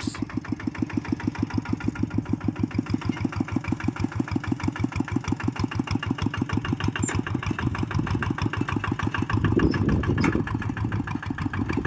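Small tractor's engine running steadily with a rapid, even chugging pulse, swelling slightly near the end.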